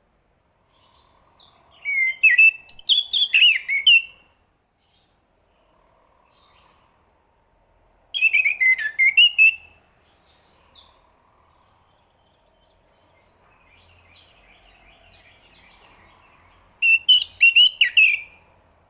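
Chestnut-capped thrush singing: three short phrases of rapid, varied whistled and warbled notes a few seconds apart, with a quieter twittering between the second and third.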